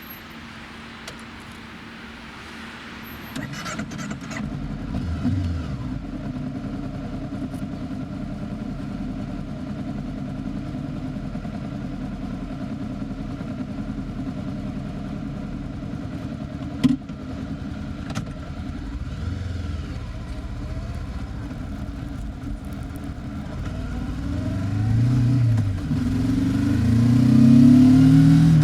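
Honda 400X parallel-twin motorcycle engine through its stock muffler: quiet at first, then about three seconds in the engine note steps up and runs steadily as the bike moves off and cruises. Near the end it revs up with rising pitch through the gears and grows louder. There is one sharp click about two-thirds of the way through.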